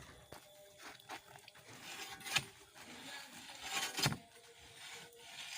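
Hand-operated well drill working into sandy soil: a few rough scraping strokes, the loudest about two and a half and four seconds in.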